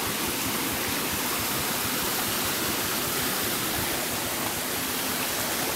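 Water of a jungle stream running in a steady, even rush.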